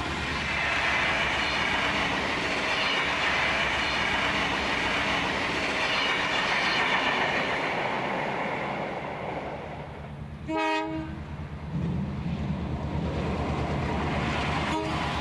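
Diesel locomotive 4903 hauling carriages, with a steady engine drone and wheel and carriage rumble, and one short horn toot about ten and a half seconds in.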